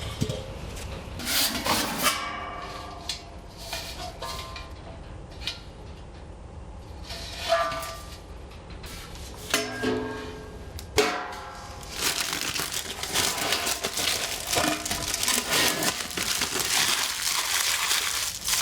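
Stainless steel fire pit stove parts clinking and ringing briefly as they are handled, several separate knocks. About two-thirds of the way in, a long stretch of rubbing and crinkling begins as protective plastic film is peeled off the metal.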